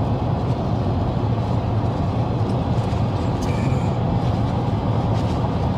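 Steady road noise heard inside a moving car's cabin: an even, low tyre and engine rumble at cruising speed.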